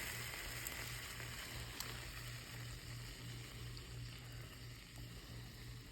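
Faint steady background hiss with a low, slowly pulsing hum: quiet room tone.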